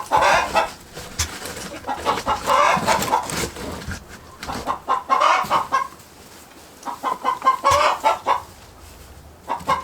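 Chickens clucking in repeated bursts every couple of seconds.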